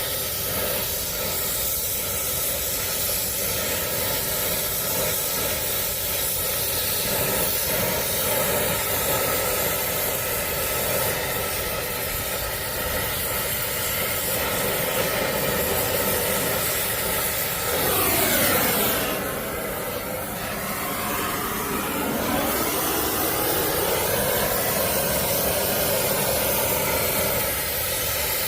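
Brazing torch flame hissing steadily while a copper line-set coupling is heated and brazed. About two-thirds of the way through, another machine sound sweeps down in pitch and back up over a few seconds.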